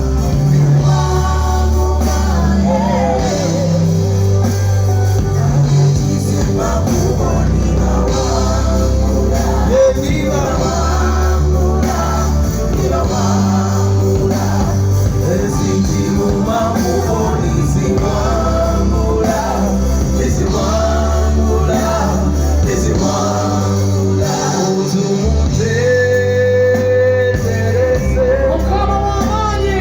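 A band playing amplified through a PA, with a voice singing over a heavy bass line: music at a sound check.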